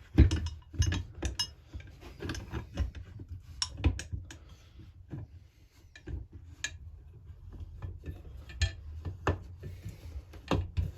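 Irregular metallic clinks and knocks of hand tools on a chainsaw crankcase and case splitter as the case halves are worked apart, the loudest knock just after the start.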